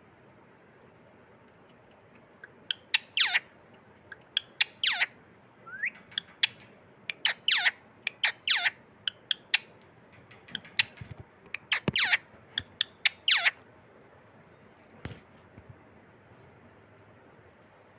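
A pet parrot calling: a run of short, sharp squawks, each sliding down in pitch, in quick clusters. They start a couple of seconds in and stop a few seconds before the end, with a few clicks or knocks among them.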